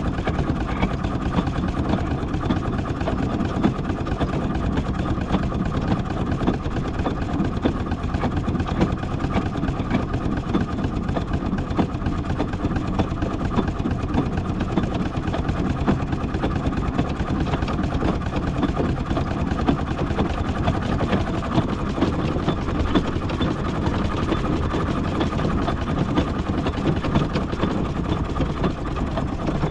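Miniature steam traction engine running steadily as it crawls along in bottom gear, a continuous mechanical clatter with a fast, even beat.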